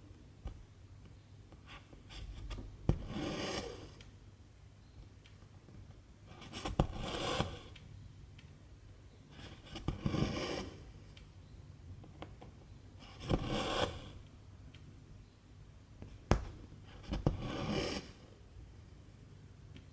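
Needle and silk thread pulled through cross-stitch fabric: five scraping swishes, each about a second long, every three to four seconds, several starting with a sharp tick as the needle goes through.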